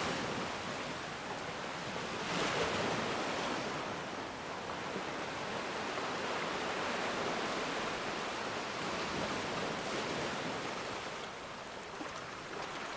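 Ocean waves washing onto a shore, a continuous hiss of surf that swells and eases, with one stronger wave breaking a little over two seconds in.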